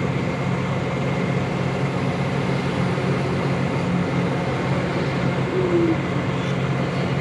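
Steady engine and road drone of a vehicle under way, heard from inside the cab, with a constant low hum.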